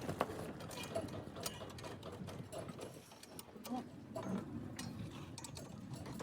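Scattered light clicks and taps at an uneven pace.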